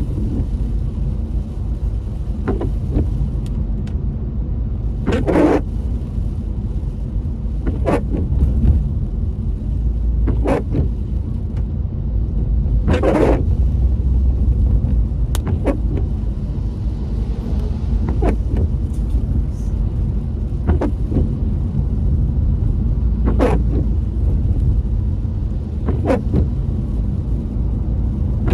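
Steady car road rumble heard from inside the cabin, with the windscreen wipers sweeping at an even pace, about one stroke every two and a half seconds, in rain.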